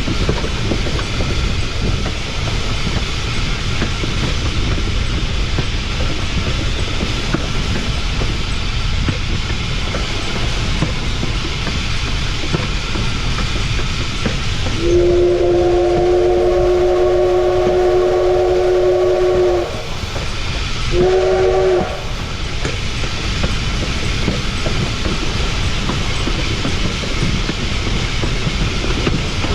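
Narrow-gauge steam locomotive 488 of the Cumbres & Toltec, a K-36 Mikado, rolling steadily along the track with wheels clicking over rail joints. About halfway through its whistle sounds one long blast of about five seconds, then a short one.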